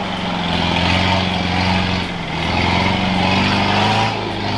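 Engine of an off-road 4x4 vehicle running steadily, its pitch rising and falling slightly.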